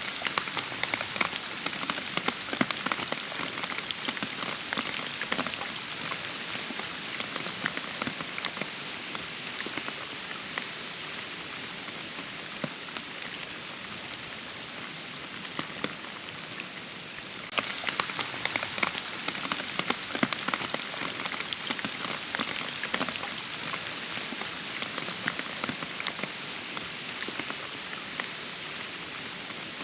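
Steady rain falling in a forest, a dense hiss thick with individual drop hits. It eases off through the middle, then abruptly turns heavier again a little past halfway.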